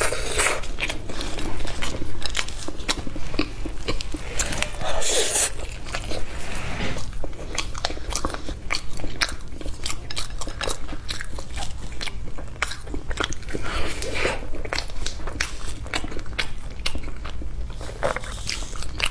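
Close-miked chewing and biting of sticky-rice zongzi: a steady run of many small wet clicks and smacks, with a few louder bites.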